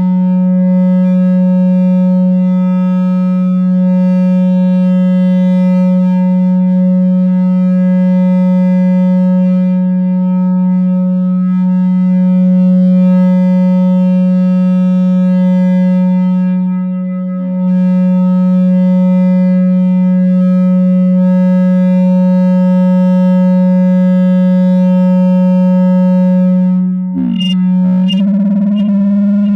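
No-input mixer feedback drone, a two-channel mixer looped through an effect pedal: one steady low hum with a ladder of overtones, dipping briefly about two-thirds of the way through. Near the end it breaks into sliding, wavering feedback tones.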